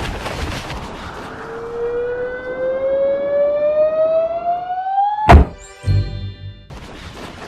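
Cartoon sound effects: a whistling tone that rises steadily in pitch for about four seconds, ended by a sharp loud impact about five seconds in, followed by a brief ringing and a low thud.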